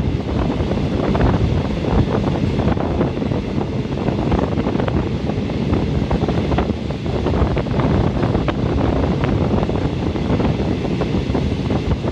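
Moving train heard at an open window: wind rushing over the microphone on top of a steady rumble from the running gear, with many small knocks and rattles.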